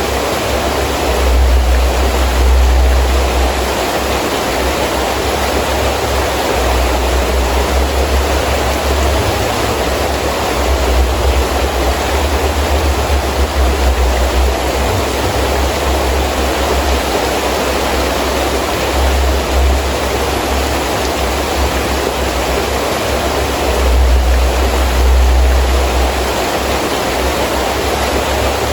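Heavy rain falling steadily in a strong wind, a dense even hiss. Under it a deep low rumble swells and fades several times as the wind gusts.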